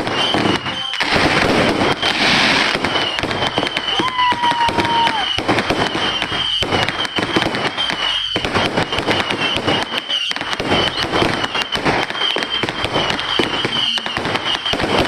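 Dense, continuous crackling and popping of many fireworks and firecrackers going off at once, with a short whistle about four seconds in.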